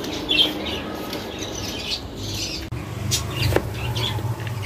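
Budgerigars chirping, the loudest call about half a second in. A steady low hum comes in about halfway through, with a few light clicks.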